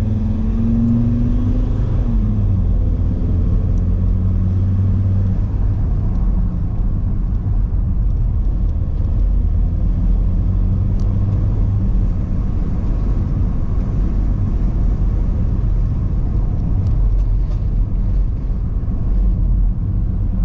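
A 4x4 car being driven, heard from inside the cabin: steady engine and tyre rumble on the road. The engine note climbs briefly and drops about two seconds in, then the car runs on evenly.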